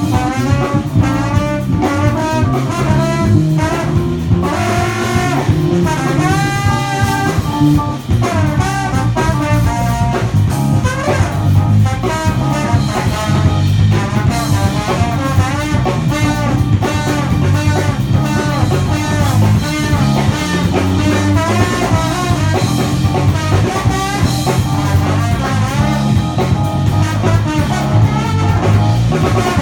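A band playing jazz: horns carry a moving melody over guitar, bass and drum kit.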